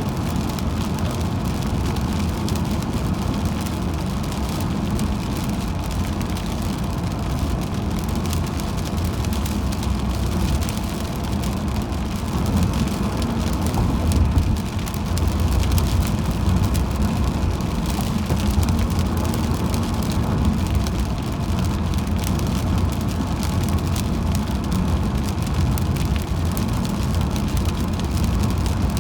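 A car driving on a wet highway in rain: steady road and tyre noise, with many small ticks of raindrops throughout.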